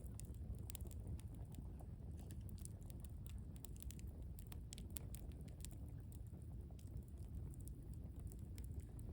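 Wood campfire burning, with irregular sharp crackles and pops over a low steady rumble.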